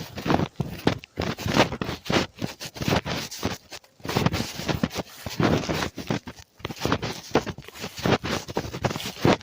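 Close, irregular scraping and rustling, a dense run of short knocks with brief pauses about four and six seconds in.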